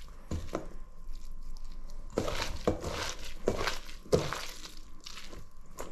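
Grated potato and onion being mixed with spices in a bowl: irregular wet squishing, crunching strokes, several a second apart.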